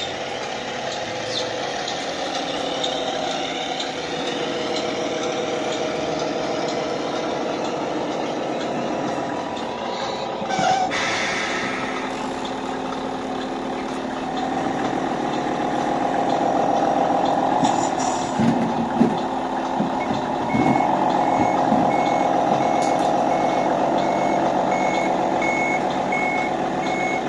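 1/14-scale radio-controlled truck's sound module playing a diesel truck engine that rises and falls with the throttle, with a short air-brake hiss about 11 seconds in. About 20 seconds in a steady reversing beeper starts and keeps beeping at an even pace as the truck backs up.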